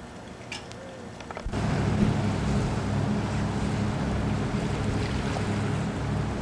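A few light clicks, then about a second and a half in, a sudden loud rush of wind buffeting the microphone over water noise, steady from then on.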